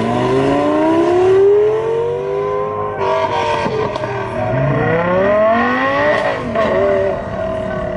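A high-performance car engine accelerating hard. Its pitch climbs for about a second and a half, then falls away about three seconds in. It climbs again to a peak about six seconds in before dropping off.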